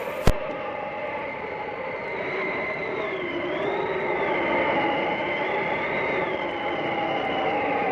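Howling blizzard wind: a steady rush with whistling tones that slowly rise and fall in pitch. A single sharp click sounds just after the start.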